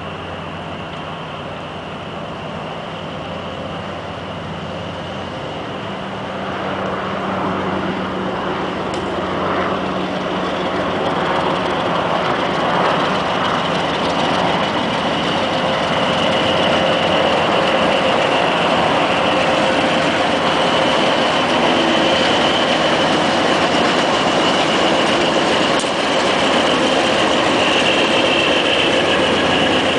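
White Pass & Yukon Route diesel locomotive No. 114 approaching and passing close by with its engine running, followed by its passenger coaches rolling past on the rails. The sound grows louder over the first dozen seconds and then stays loud, with a steady high tone through the second half.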